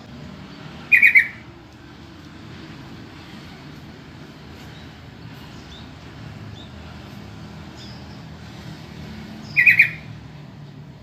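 Yellow-vented bulbul (trucukan) calling twice, about a second in and again near the end. Each call is a short, quick run of a few notes. A steady low rumble runs underneath.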